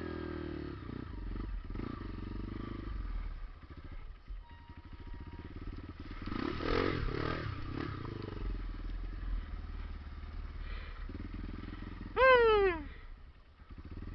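Trail motorcycle engines running on a muddy trail, swelling louder for a couple of seconds midway. Near the end a brief loud shout falls in pitch over the engine noise.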